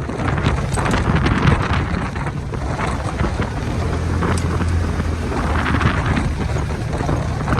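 An engine running steadily, with wind buffeting the microphone and scattered clicks and knocks.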